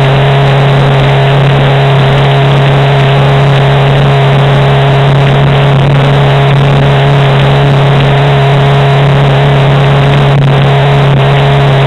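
Jet ski engine running loud and steady at a constant throttle, with a steady rush of wind and water noise.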